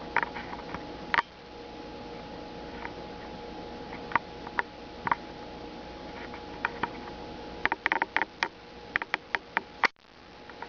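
A squirrel eating: irregular sharp crunching clicks of its teeth on food, a few scattered at first, then a dense run of crunches near the end.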